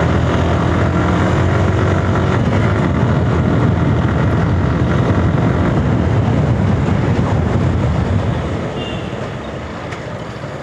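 Motorcycle engine running and wind rushing past while riding at speed, picked up by the rider's mic; it gets quieter about eight seconds in.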